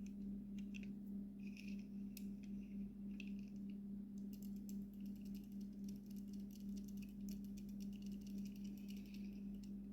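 Faint clicks and light rattling of small toy cars being handled, over a steady low hum. The clicking grows denser about four seconds in.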